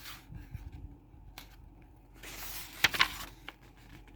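A picture book's page being turned: a short paper rustle with two sharp snaps of the page about three seconds in, with small handling clicks before it.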